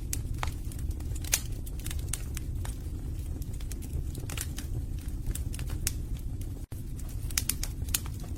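Wood fire burning in a fireplace: a steady low rumble of flames with frequent irregular crackles and pops from the logs. The sound drops out for an instant about two-thirds of the way through.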